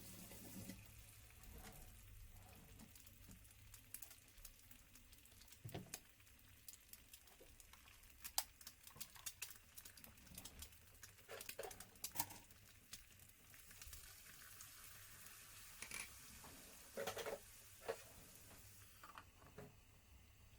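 Faint, scattered clicks and taps of small objects being handled in a small room, with a few sharper knocks between about 8 and 18 seconds in.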